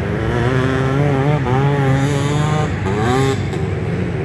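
Motocross bikes racing, engines revving up and down as they work through the track, with a sharp rev climbing about three seconds in before dropping off.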